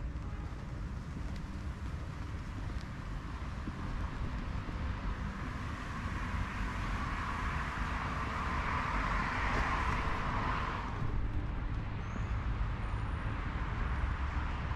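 Street traffic with a steady low rumble; a passing vehicle's noise builds over several seconds and cuts off sharply about eleven seconds in. A few faint high chirps follow near the end.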